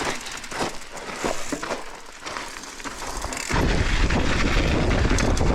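Mountain bike starting down a loose volcanic-soil trail: irregular clicks and crunches of the tires and bike rattling over gravel. About three and a half seconds in, a loud, steady wind rumble on the helmet camera's microphone takes over as the bike gathers speed.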